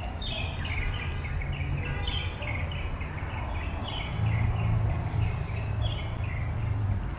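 Small birds chirping in quick runs of short notes that step downward, over a steady low hum of background noise that grows louder about halfway through.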